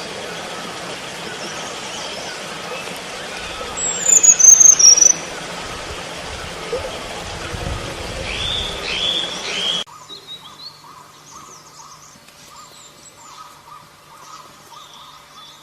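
Wild selendang biru bird calling: a loud, high whistled call that falls in pitch about four seconds in, then a quick series of short notes near nine seconds. It is followed by fainter chirps after an abrupt drop in background noise.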